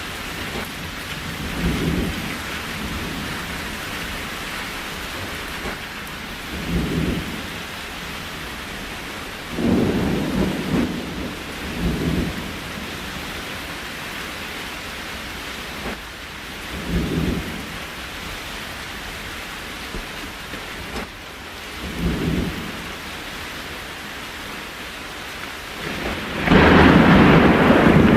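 Steady rain hiss with about five short, low rumbles spread through it, then a much louder surge of rain and rumble for the last couple of seconds.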